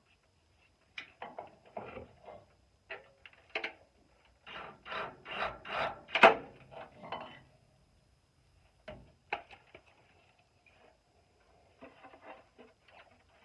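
Irregular rasping and scraping of metal on metal as self-tapping sheet metal screws are worked into a muffler's shell, with a run of about three strokes a second in the middle and a sharp click about six seconds in.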